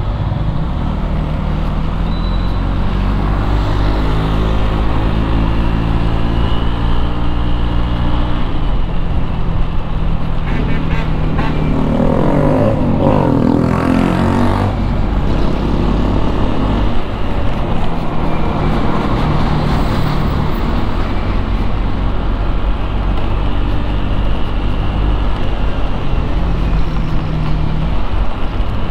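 Motorcycle engine running in traffic, its pitch rising and falling with the throttle, with road and traffic noise around it. A louder passing vehicle swells up about twelve seconds in and fades by fifteen.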